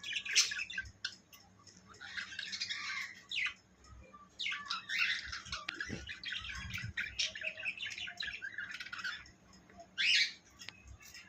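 Birds chirping and squawking in busy bursts of quick calls, with short pauses between the bursts.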